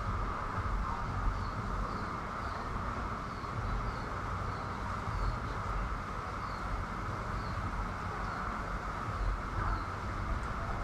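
Heavy rain falling in a steady hiss, with wind buffeting the microphone in low rumbles. A short high chirp repeats roughly every second throughout.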